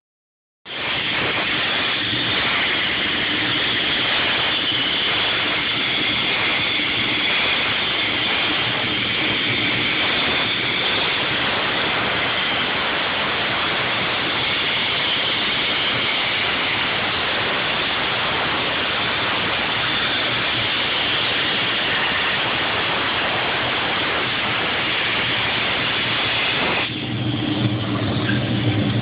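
Plasma cutter cutting steel turbo exhaust flanges: a steady, loud hiss of the arc and its air jet, starting about a second in. Near the end the hiss cuts off and a lower, steady machine hum remains.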